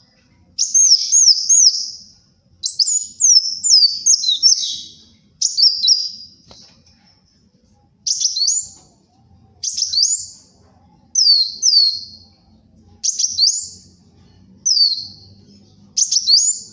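Kolibri wulung sunbird singing in a loud, energetic run of short, high phrases of quick sweeping notes, about ten phrases with brief pauses between them.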